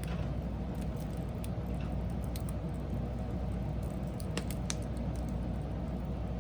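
Wood fire burning: a steady low rumble of flames with sharp crackles and pops from the burning wood at irregular moments.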